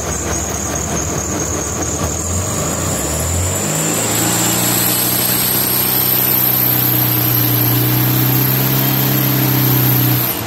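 Fuel-injected air-cooled VW 1600cc single-port flat-four running on an engine dyno: it revs up over about two seconds, then holds at steady higher revs under load during a dyno pull, and the revs drop off sharply near the end. A faint high whine rises slowly in pitch throughout.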